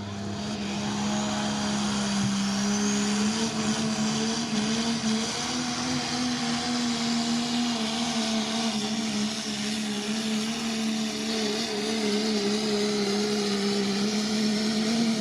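A 1996 Dodge 2500 pulling truck's modified diesel engine running hard at high, nearly steady revs as it drags the sled, its pitch wavering only slightly. The engine sound starts falling away at the very end.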